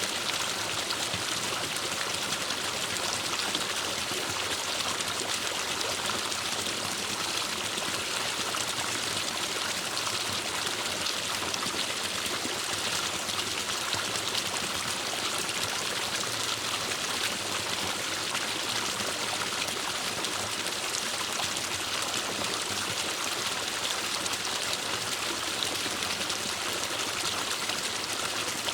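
Forest stream running steadily: an even rush and babble of flowing water.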